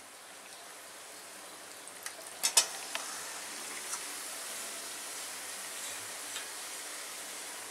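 Chopped onions frying in hot oil in an aluminium kadai: a steady sizzle that grows a little louder as marinated chicken pieces go into the pan. A few sharp metal clinks of spatula and bowl against the pan, the loudest pair about two and a half seconds in.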